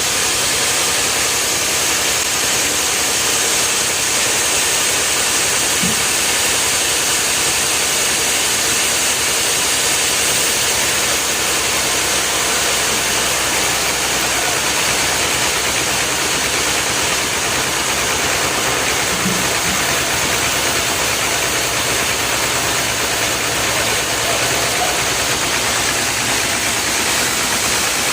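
Steady machine noise, engine-like, with a strong high hiss and an even level throughout.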